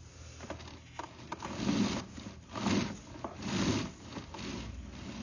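Drain inspection camera's push cable rubbing and scraping as it is pulled back through the drain pipe, in repeated strokes about a second apart.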